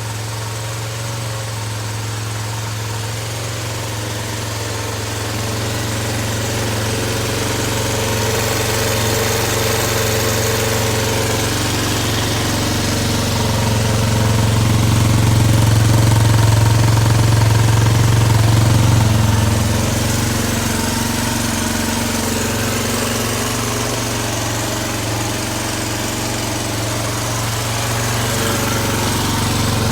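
Suzuki DR250R's single-cylinder four-stroke engine running at idle, steady throughout, growing louder for a few seconds in the middle before settling back.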